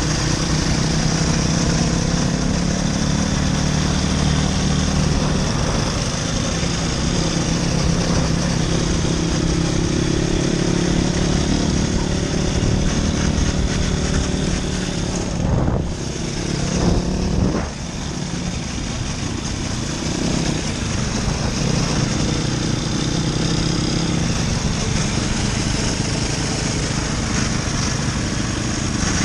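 Motoland RT200 motorcycle engine running steadily, with a brief rise and fall in pitch and throttle a little past the middle.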